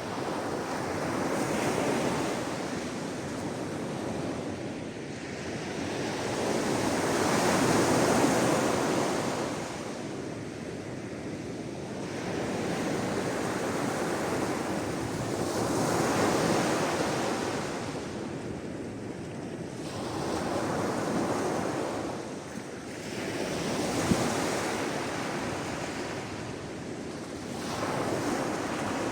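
Sea waves breaking against the shore, the surf swelling and falling back every few seconds in a slow, uneven rhythm.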